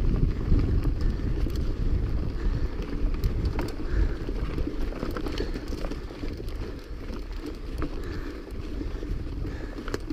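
Wind buffeting the microphone of a mountain bike rider's camera on a fast ride, a heavy low rumble that slowly eases. Scattered sharp clicks and knocks come from the bike rattling over rough ground.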